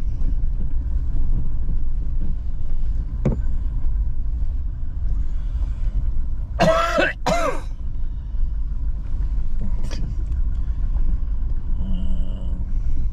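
Vehicle driving slowly along a bush track, a steady low rumble, with a single click about three seconds in. Around the middle comes a short two-part vocal sound from a person.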